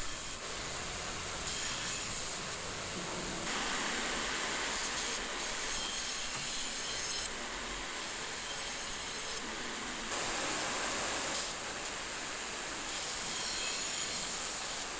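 Carbon-steel cleaver blade being ground to put on its bevel: a steady hissing grind that shifts in tone every few seconds.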